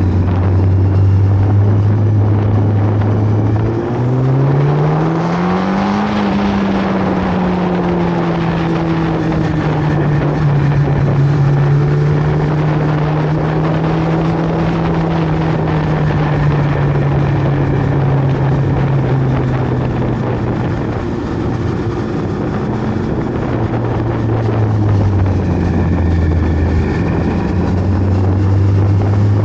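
Superbike's inline-four engine under way with wind rush. The engine holds a steady note, climbs in pitch as it accelerates a few seconds in, settles at a higher cruising note, then drops back down near the end.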